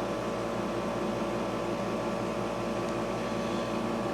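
Steady mechanical hum: several constant tones over an even hiss, unchanging throughout.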